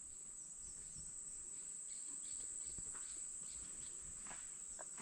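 Insect chorus: a steady, high-pitched, even buzz, with a few faint short chirps about half a second in.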